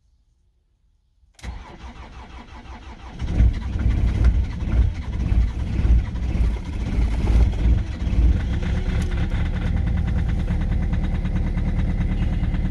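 BMW diesel engine on a hard cold start: near silence, then the starter cranks for about two seconds before the engine catches. It runs rough and uneven for several seconds, then settles into a steady idle.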